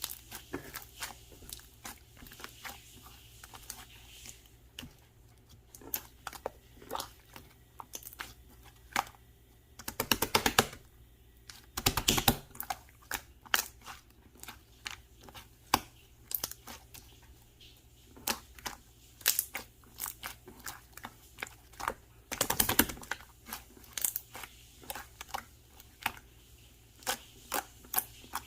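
Slime being squished and poked by hand: a string of sharp clicks and pops, with a few longer crackling clusters about ten, twelve and twenty-three seconds in.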